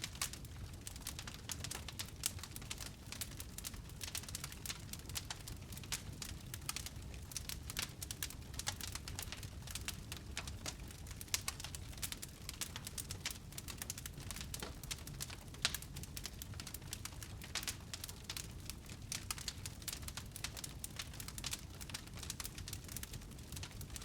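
Wood fire burning in a fireplace, crackling with a dense, irregular stream of small snaps and pops over a low steady rumble of the flames, with a few sharper pops standing out.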